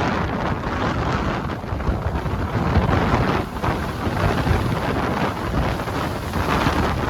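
Strong gusting wind buffeting the microphone, a loud rumbling rush that surges and eases.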